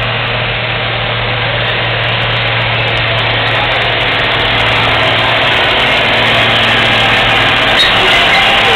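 Fendt 926 tractor's diesel engine running hard under load in a tractor pull, a steady, loud drone that grows slowly louder.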